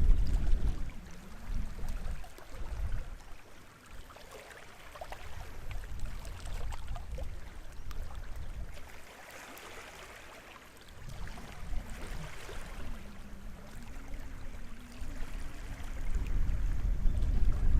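Small sea waves lapping and washing on the shore of a sheltered bay, with a louder wash about halfway through. Wind rumbles on the microphone at the start and again near the end.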